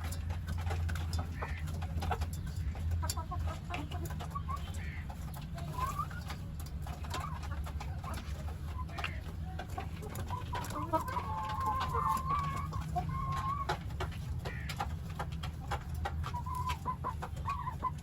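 Chickens clucking and calling while they feed, with many short clicks of pecking at the grain, over a steady low hum.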